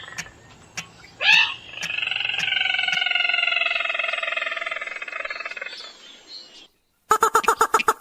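Recorded rail or crake lure call. A short rising squeal about a second in leads into a long call that is held for around four seconds, falling slightly and fading out. Near the end, after a brief gap, a fast run of sharp rattling pulses begins.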